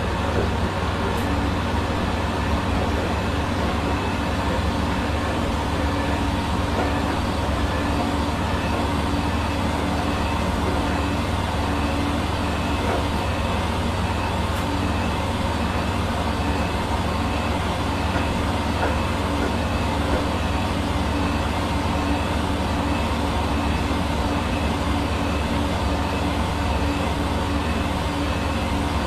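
Hair dryer running steadily: an even blowing rush of air with a steady low motor hum, unchanging throughout.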